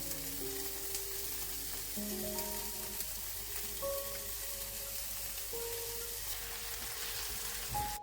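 Food sizzling as it fries in a pan, a steady hiss that stops suddenly at the end, with soft piano music playing over it.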